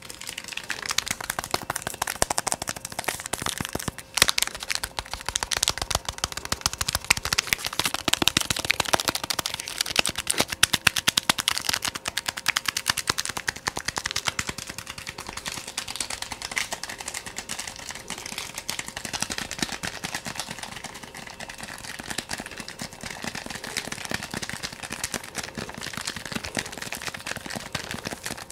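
Fast ASMR tapping: a dense, rapid run of small sharp taps close to the microphone, louder in the first half and softer toward the end.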